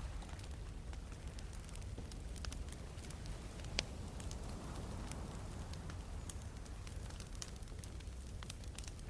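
Wood campfire crackling, with irregular sharp pops of burning logs, one louder snap a little before halfway, over a steady low rush of sea waves.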